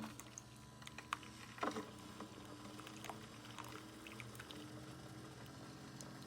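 Keurig K-Supreme Plus SMART single-serve coffee maker running, a steady low hum with a couple of sharp clicks about one and nearly two seconds in. The hum grows a little stronger about four seconds in.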